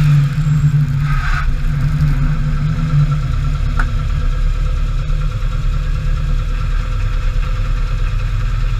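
BMW rally car's engine running on a wet track, with tyre hiss over the first second or two, then settling to a steady low rumble at low revs, close to idle.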